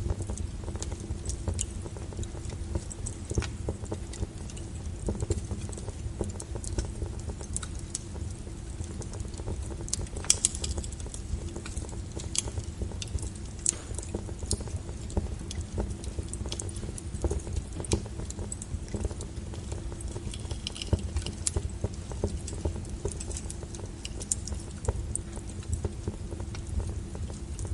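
Wood fire crackling: irregular sharp pops and snaps from the burning logs over a low steady rumble of the flames, with the loudest pop about ten seconds in.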